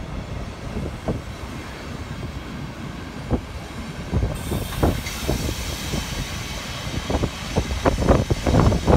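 Railway passenger coaches rolling past close by, wheels clacking over rail joints. The clacks come thicker and louder in the second half, and a high hiss joins about halfway through.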